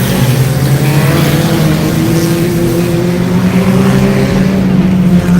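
Stock car engines running at racing speed around the track, a loud, continuous engine drone whose pitch climbs slightly partway through.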